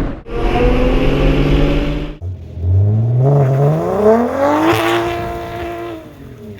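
Car engine accelerating, in two cut-together passes: a loud run that cuts off abruptly about two seconds in, then revs climbing steadily for about two seconds and holding high before easing near the end.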